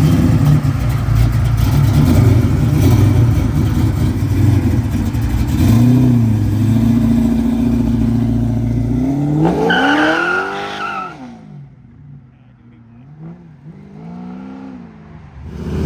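Car engine sound from muscle and classic cars pulling away: a heavy low rumble, then a sharp rev that rises and falls about ten seconds in. The sound then fades, with two smaller revs near the end.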